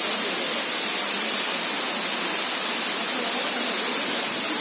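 Waterfall rushing as a loud, steady hiss of falling water.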